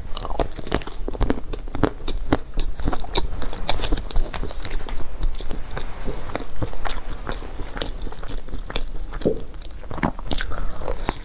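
Close-up eating sounds: crisp bites and chewing of a crispy-shelled half-baked cheesecake, with many short crunches throughout.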